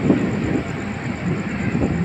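Container freight train rumbling on the track, a loud, uneven low rumble.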